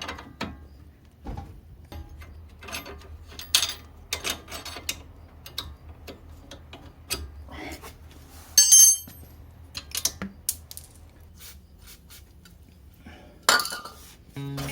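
Metal hand tools and steel car parts clinking and clattering during hands-on repair work, a string of irregular knocks and taps with one sharp ringing metallic clink about eight and a half seconds in.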